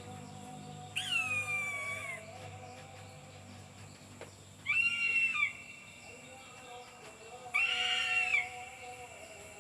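Captive eagle calling three times: high, thin calls about a second long each, the first sliding down in pitch.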